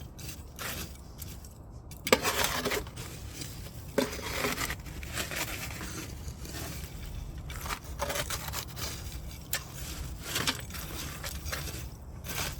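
Firewood burning, with irregular crackles and pops over a low, steady rumble. The sharpest pop comes about two seconds in, and another about four seconds in.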